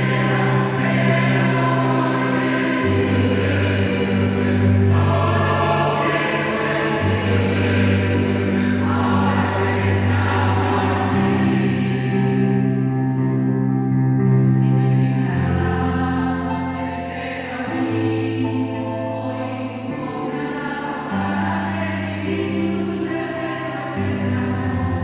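Choir singing in held chords that change every couple of seconds, a little softer in the second half.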